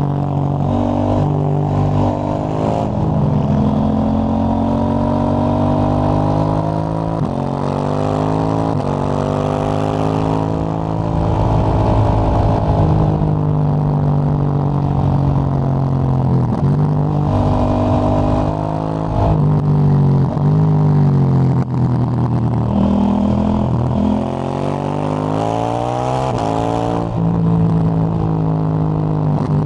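KTM 890 Duke GP's parallel-twin engine running through a Dominator HP8 slip-on exhaust with its dB-killer fitted, heard on the move. The revs climb and fall back again and again as the bike accelerates and slows.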